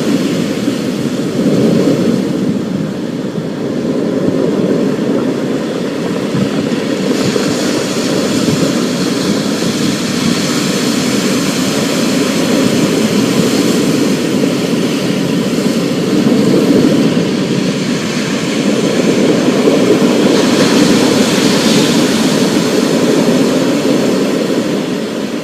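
Thunderstorm ambience: a steady, dense rush of noise with a low rumble underneath. The higher hiss grows brighter about 7 seconds in and again around 20 seconds.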